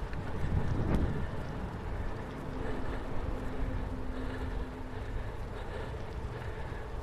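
Bicycle riding along a gravel rail trail: steady low rumble of tyres and wind on the GoPro's microphone, with a sharp click about a second in and a faint steady hum from about two to five seconds in.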